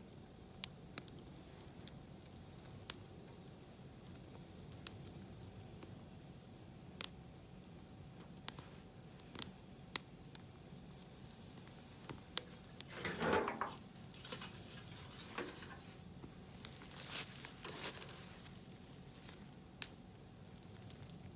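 Wood fire crackling, with sharp, irregular pops over a low background. A few longer rustling bursts come about midway and again a few seconds later.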